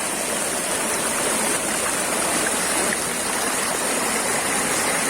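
Waterfall and river water rushing steadily, an even, unbroken wash of water noise.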